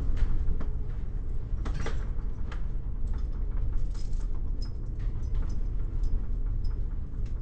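Inside a moving bus: a steady low rumble of engine and road, with frequent rattling clicks and a few short high squeaks, the strange noise that keeps sounding throughout the ride.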